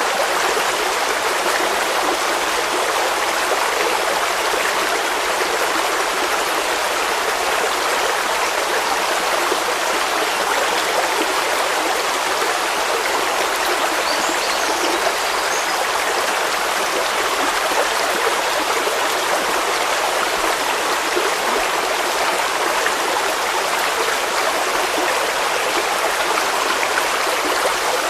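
A stream of water flowing steadily, an even rushing with no breaks or changes.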